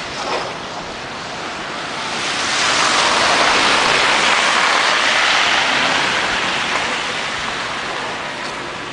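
A vehicle passing on the street. Its tyre and road noise swells from about two seconds in, is loudest around the middle and fades away near the end.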